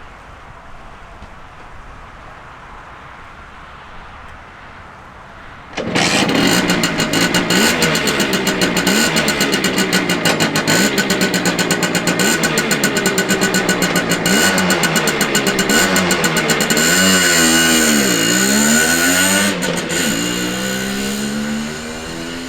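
Simson Schwalbe moped's 50 cc single-cylinder two-stroke engine starting abruptly about six seconds in and running, revved up and down again and again, with one deeper drop and climb in pitch near the end.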